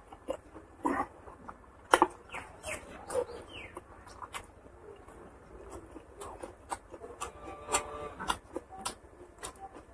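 Close-miked chewing of a mouthful of rice and curry: wet lip smacks and sharp mouth clicks in an irregular string, with a short pitched sound about seven seconds in.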